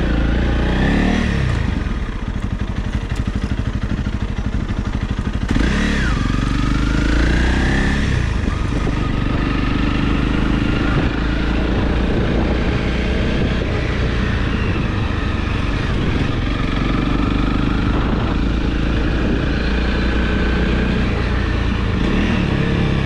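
Honda CRF Rally's single-cylinder four-stroke engine running on an off-road ride, its pitch rising and falling with the throttle, with a clear rise in revs about six seconds in.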